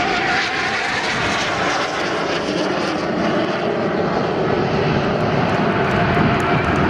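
Aermacchi MB-339 jet trainer engines running loud and steady as the aircraft fly past, a dense jet noise with a faint whine falling in pitch over the first couple of seconds.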